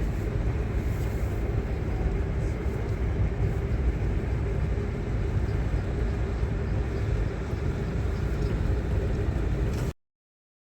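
Steady low rumble of a moving road vehicle with a faint steady hum, cutting off abruptly near the end.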